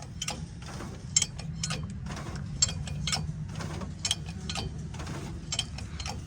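Irregular metallic clicks and taps of tools and jacks being worked on a truck's front axle, one to three a second, over a low steady hum.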